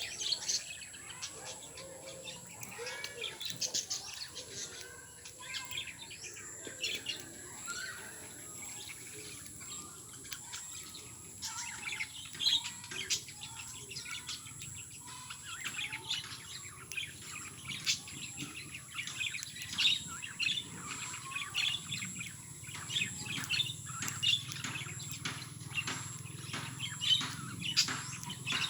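Pet lovebirds chirping and chattering in a steady stream of short, high chirps, busier in the second half.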